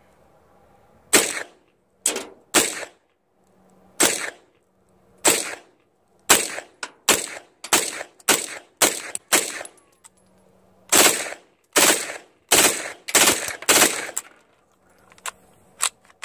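PTR 9CT 9mm MP5-clone pistol firing MagTech 115-grain brass-cased rounds unsuppressed, about twenty single shots. Some shots are spaced a second or more apart, others come in quick strings of about three a second, and two faint clicks follow near the end.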